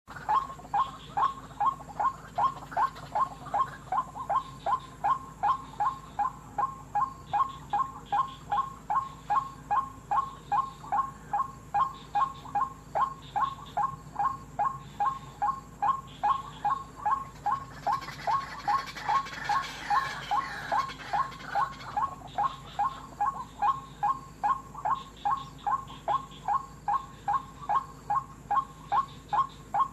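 White-breasted waterhen's monotonous 'wak-wak' call, short notes repeated evenly about three times a second without a break. A hissing rustle rises over it about two-thirds of the way through, then fades.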